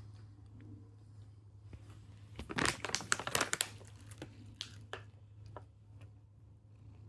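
Snack bag crinkling as it is handled, with a dense burst of crackling for about a second and a half near the middle, then a few scattered crinkles and clicks.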